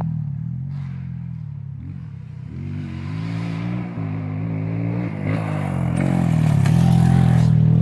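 Motocross dirt bike engine on the track. It eases off for the first couple of seconds, then revs up with rising pitch and stays loud and high from about six seconds in.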